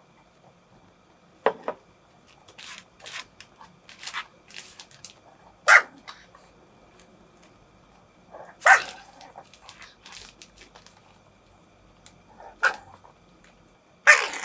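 Pet dog barking in single sharp barks, about five of them spread a few seconds apart, with fainter clicks in between.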